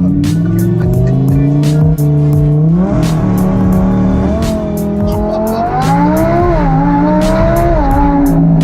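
Lamborghini engine revving as the car accelerates, its pitch climbing with a brief break about two seconds in, then rising and falling. Background music with a steady beat plays along.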